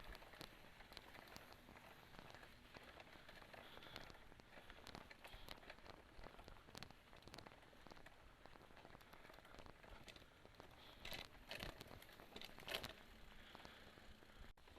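Faint crunching and crackling of mountain bike tyres rolling slowly over a forest dirt trail, with many small clicks and a few sharper ticks near the end.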